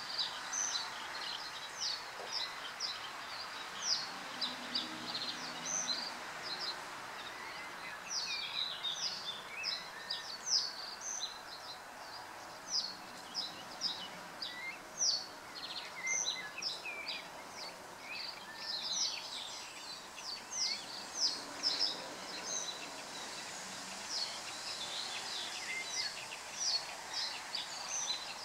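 Birds calling with many short, high chirps in quick succession over a steady background hiss.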